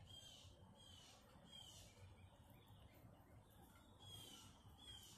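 Faint bird calls: short, sharp, downward-slurred chirps, a few in quick succession, a pause, then two more near the end.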